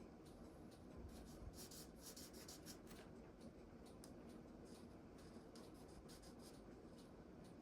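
Faint, irregular scratching of an alcohol marker's bullet tip stroking over cardstock as an image is coloured in.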